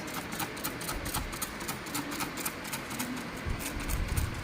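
Window air conditioner running, with a rapid even ticking of about five or six ticks a second and a low rumble near the end.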